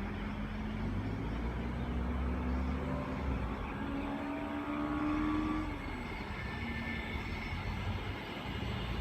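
Sydney Trains Tangara electric train pulling into the platform: a low rumble with a motor whine that rises in pitch, then drops away about six seconds in.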